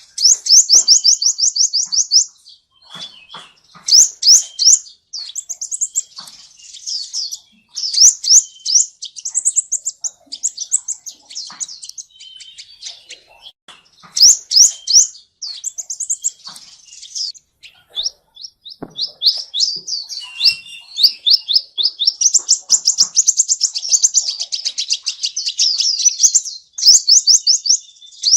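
Small cage birds called seven-colour birds (chim 7 màu) chirping and singing: phrases of fast, sharp, high-pitched repeated notes, with short pauses between them and a near-continuous chatter in the last part.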